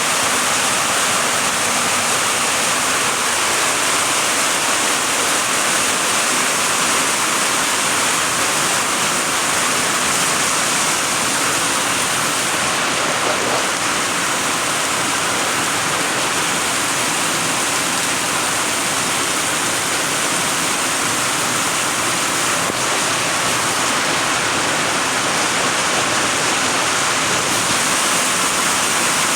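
Heavy rain pouring down steadily, a dense, unbroken hiss of water.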